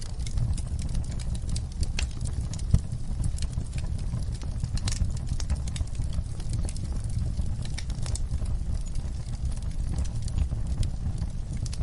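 Wood fire in a fireplace crackling, with irregular sharp pops and snaps over a steady low rumble of the flames. One pop a little under three seconds in is louder than the rest.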